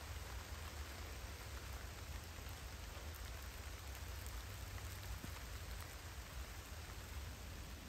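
Light rain falling on the forest canopy: a steady, even hiss with faint scattered drop ticks, over a low rumble.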